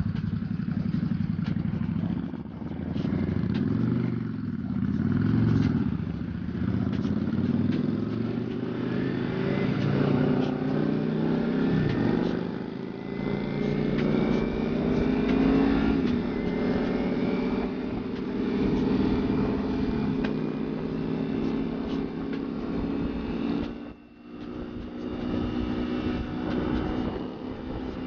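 Motorcycle engine pulling away and accelerating, its pitch rising steadily through the gears. Near the end it drops out briefly, as at a throttle lift or gear change, then pulls again.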